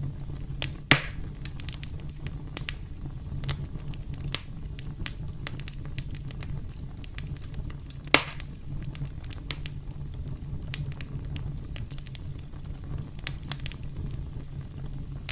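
Campfire burning with a steady low rumble and frequent irregular crackles, with two louder pops, one about a second in and another about eight seconds in.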